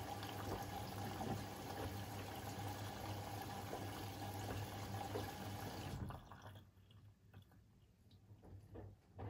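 Siemens iQ700 washing machine drawing water in: a steady rush of inflowing water with a low hum, which cuts off suddenly about six seconds in as the inlet stops. Faint soft ticks follow.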